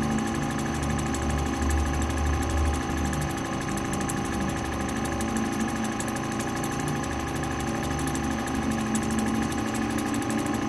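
Lapidary cabbing wheel machine running steadily while an opal is ground on it: a steady motor hum with a low drone that swells and fades every second or two.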